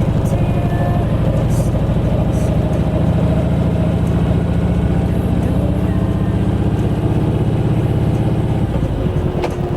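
Kawasaki Vulcan Voyager motorcycle's V-twin engine running steadily during a ride.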